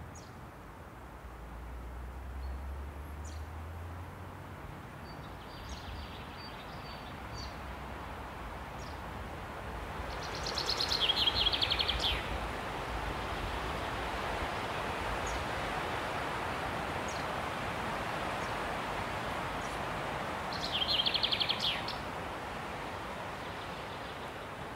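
Outdoor nature ambience: a small bird gives a fast, high trill twice, near the middle and again near the end, with faint short chirps between, over a steady rushing noise that grows louder about ten seconds in.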